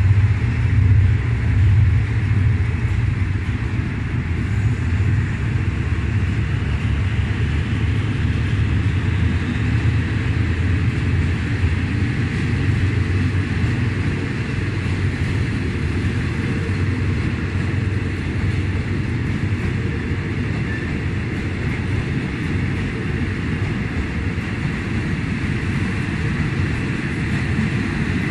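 A train of passenger coaches rolling slowly past along the platform track, with a steady low rumble of wheels on rails that eases slightly over time.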